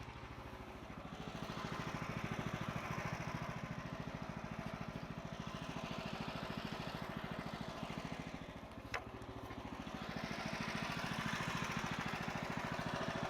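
The sawmill's 14 HP Kohler engine running steadily at idle, a fast even putter whose level swells and eases. One sharp click sounds about nine seconds in.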